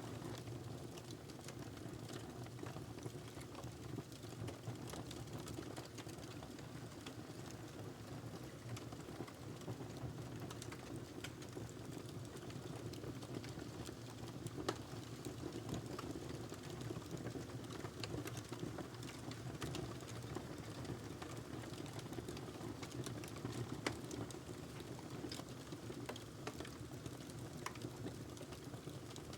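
Wood fire crackling in a fireplace: a steady low rumble of the flames with scattered small crackles, and two louder pops, one about halfway through and one later.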